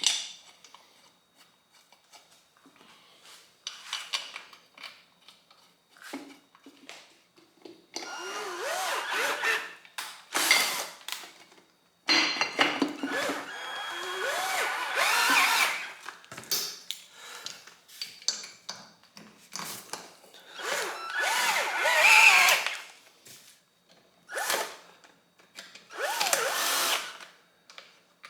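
A low-powered drill running in four short bursts, its motor speeding up and slowing within each burst, as it spins in the aluminium tail housing bolts on a TH400 transmission. Clicks and handling of parts come between the bursts.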